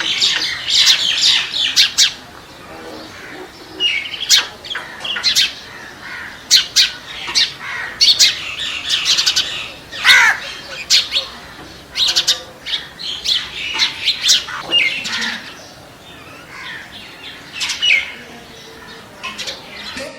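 Birds chirping and squawking in many short, irregular, high-pitched calls.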